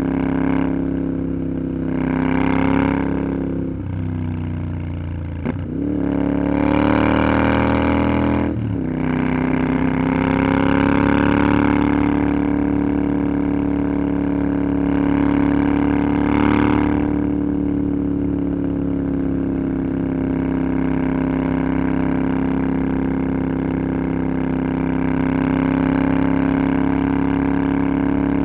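Motorcycle engine running under way. Its note drops suddenly and climbs again three times in the first nine seconds, then holds steady at a cruise, with a hiss of wind swelling now and then.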